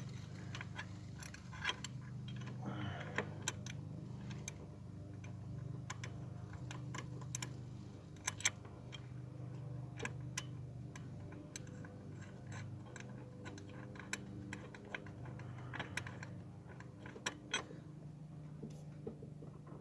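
Scattered light metallic clicks and taps of the wastegate actuator's mounting plate and its bolts being handled and fitted by hand, over a steady low hum.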